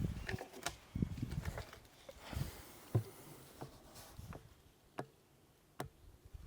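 A few light, separate clicks and knocks of handling during an engine oil top-up, with a brief faint hiss about two and a half seconds in.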